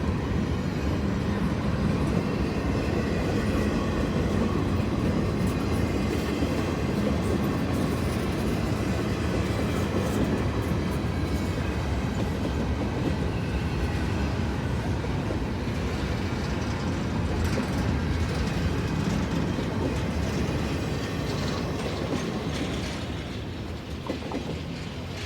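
Norfolk Southern freight train's cars rolling past on the rails with a steady rumble and wheel clatter, fading near the end.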